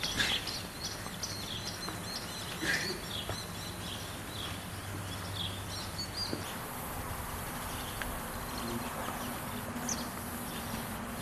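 Birds chirping now and then over steady outdoor background noise, the chirps thinning out after the first few seconds.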